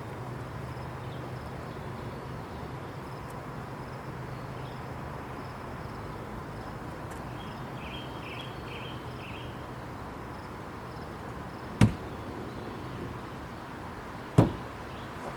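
Two sharp knocks about two and a half seconds apart near the end, over a steady low hum and outdoor background noise, with a brief run of high chirps midway.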